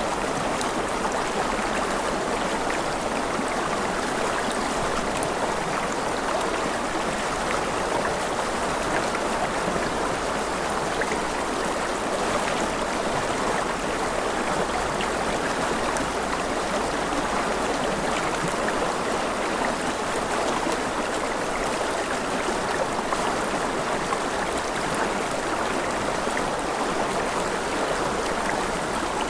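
Stream water running steadily, an even rush with no pauses, and faint scattered ticks over it.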